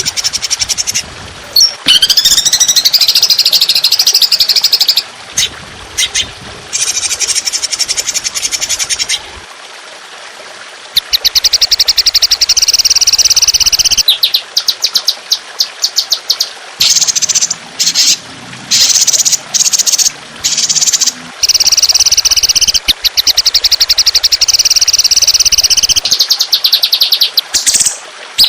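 Recorded songbird song used as a masteran training track: loud, long bursts of very fast, high trills and rapid repeated notes, separated by short pauses, with a rising sweep about two seconds in.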